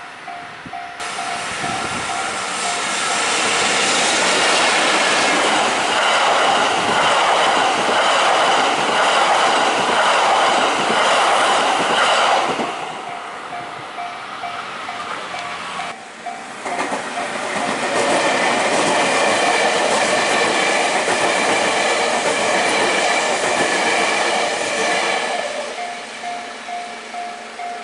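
Two trains passing over a railway level crossing one after the other, wheels clattering on the rail joints. The crossing's warning bell rings throughout in a fast, repeating ding, plainly heard in the gaps before, between and after the trains.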